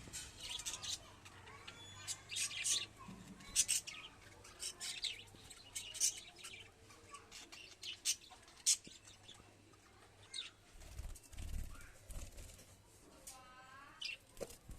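Budgerigars chirping: a steady run of short, sharp, high calls, roughly one or two a second, with a few warbling calls near the end.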